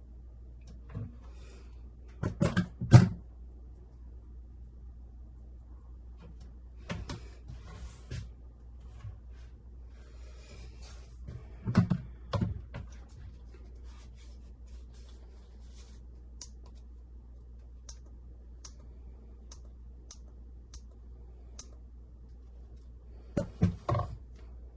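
Scattered knocks and clatter in short groups several seconds apart, as of wood and tools being handled during cabinet work, over a low steady hum. In the middle there is a run of faint ticks, roughly one every 0.7 s.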